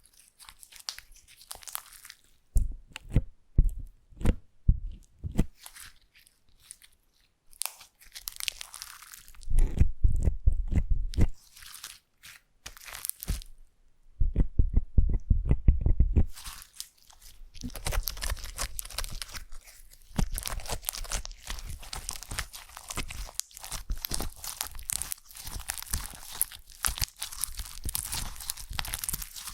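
Slime being squeezed and worked by hand close to the microphone: a few separate soft squishes at first, then dense, fine crackling that runs on almost without a break in the second half.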